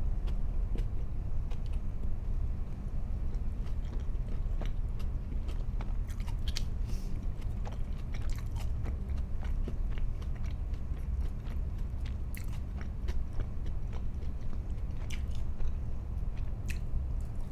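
A person chewing and biting into food, with scattered crisp crunches and small clicks over a steady low hum.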